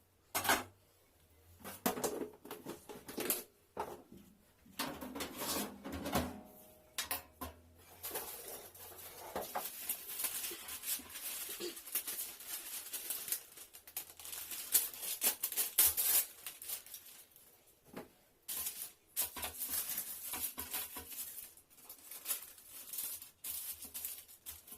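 Kitchen handling sounds: irregular clicks, knocks and rustling of dishes, utensils and paper as cookie dough is shaped by hand and set out to bake.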